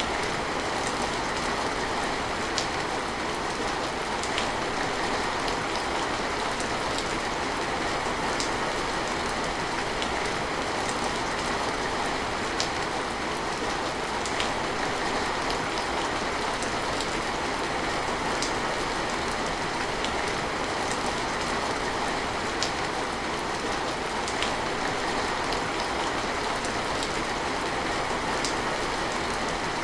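Steady rain falling, an even hiss with scattered sharper drop splashes every second or so.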